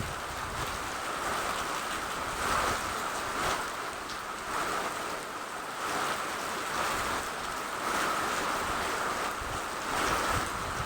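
Steady rain falling, a continuous hiss that swells slightly about once a second.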